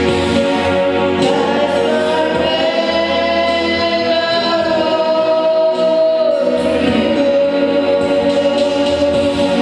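Congregation or choir singing a slow gospel worship song, holding long sustained notes, with one held note sliding down in pitch a little past the middle.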